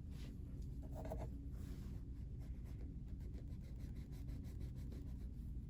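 Faint scratching and rubbing with a run of quick light clicks in the middle, over a steady low hum.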